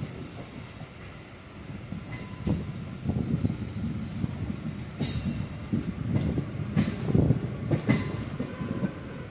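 Moving train heard from the doorway of its own coach: wheels running on the rails in a steady rumble, which grows louder after the first couple of seconds, with irregular clacks as the wheels cross rail joints in the second half.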